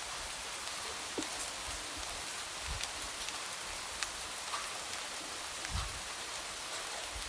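Light rain falling steadily, with scattered single drops tapping against a window and a few soft, low thuds.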